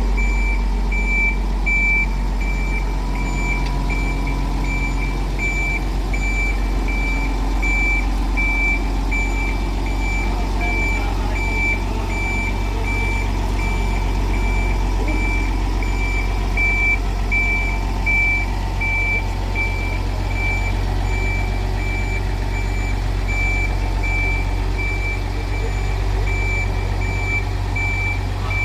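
Vehicle reversing alarm beeping: one high tone repeating at an even, quick rate, over a steady low vehicle hum.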